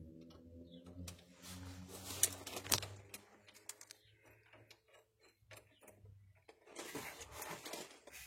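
Scattered light clicks and clinks of hand tools and metal parts being worked, over a low steady hum that fades out over the first few seconds, with a short rustling, scraping stretch near the end.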